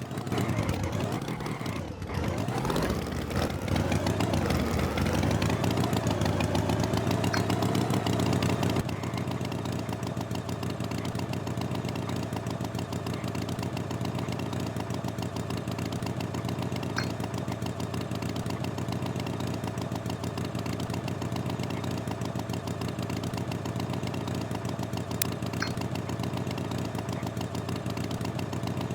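An engine running: it revs with changing pitch for several seconds, then settles into a steady idle about nine seconds in.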